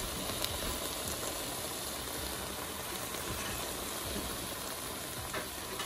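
Ground turkey with onions and peppers sizzling steadily in a skillet as it simmers, an even hiss with no stirring.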